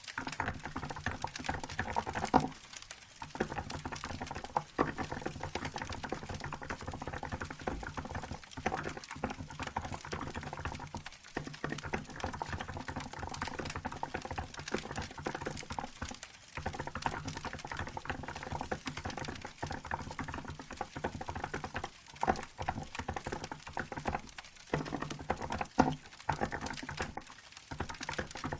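Steady, fast typing on a Hansung GK868B keyboard with milk-coloured keycaps: a continuous run of soft key clicks, broken by a few short pauses.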